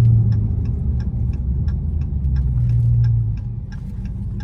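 Dodge Charger Hellcat's supercharged V8 with its mid mufflers deleted, a loud low exhaust drone heard from inside the cabin, easing off about three and a half seconds in. A light, regular ticking about three times a second runs over it.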